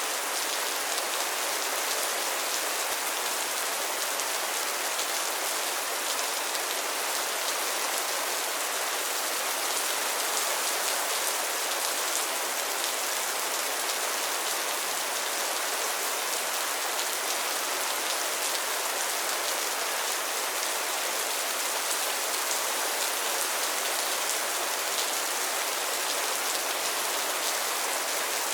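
Steady rain falling on a pond and its lily pads, an even hiss of many small drop patters.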